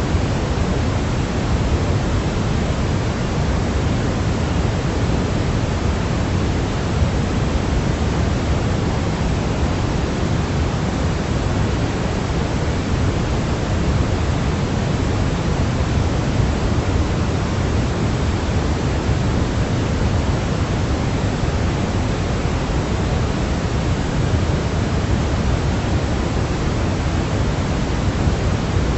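Steady sleep white noise: an even, unchanging hiss that is heavier in the low end, like pink noise.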